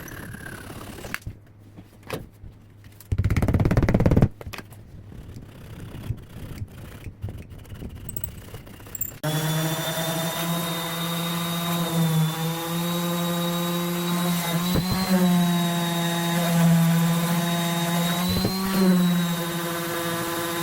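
Scattered knocks and a loud burst of noise lasting about a second, then an electric power tool switched on, its motor running with a steady hum. Its pitch dips briefly twice, as if under load while working wood.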